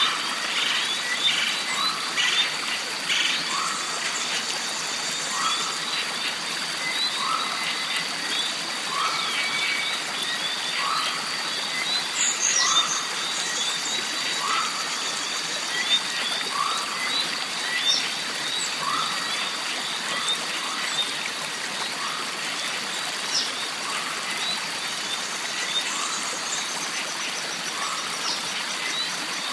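Jungle stream ambience: water running steadily under a dense high insect drone with ticking. A short animal call repeats about once a second, and a few high bird chirps come through, one about a third of the way in and another near the end.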